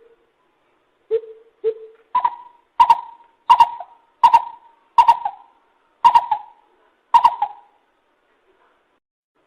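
Lesser coucal calling: two low, hollow notes, then a run of eight louder, higher-pitched hoots about two-thirds of a second apart.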